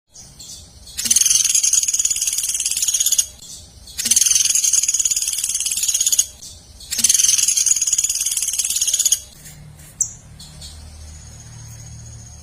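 A songbird's rapid, high, buzzing trill, sung three times in long bursts of about two seconds each, as used in a masteran song-tutoring recording. After the third trill the song stops and a quieter low hum remains.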